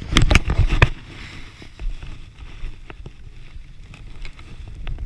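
Wind rumbling on a camera microphone, with a quick cluster of loud sharp knocks and clatters in the first second.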